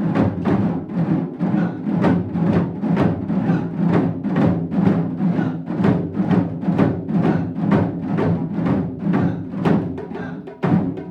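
Several taiko drums struck together in a steady rhythm of about three to four beats a second, with a short break near the end.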